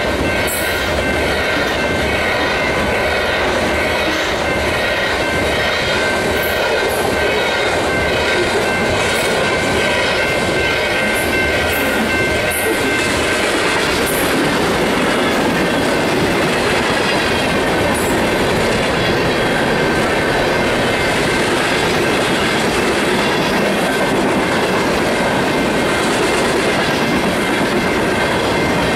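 Freight cars of a mixed freight train, tank cars and covered hoppers, rolling past close by with their wheels clicking over the rail joints. A thin, steady wheel squeal rides over the rumble in the first half and fades about halfway through.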